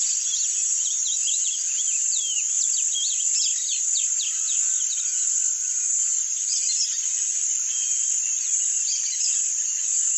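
Rusty-collared seedeater singing its 'grego' song: a quick run of varied chirps and sharp sweeping notes for the first half, then a few scattered notes. A steady high insect buzz runs underneath and is louder than the bird.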